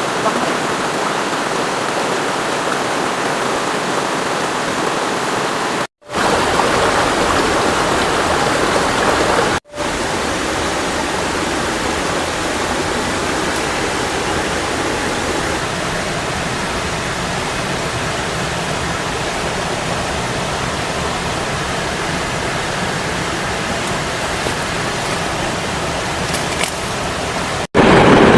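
Steady rush of fast-flowing water, cut off for a split second three times: about six seconds in, near ten seconds, and just before the end, where a louder rush takes over.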